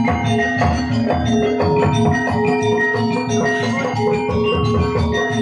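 Gamelan music accompanying a dance: struck bronze metallophones ringing over steady sustained tones, with rapid hand-drum strokes.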